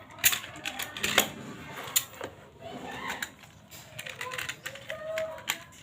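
Plastic toy police cars clattering and clicking as they are handled, an irregular run of sharp clicks and knocks.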